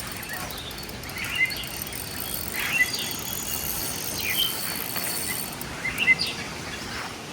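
Birds chirping in short phrases, about every second and a half, over a steady high insect drone.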